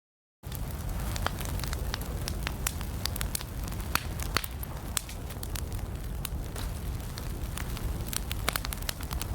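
Wood fire burning in a fireplace, with a steady low rumble and many sharp crackles and pops throughout. It starts abruptly after a brief moment of silence at the very beginning.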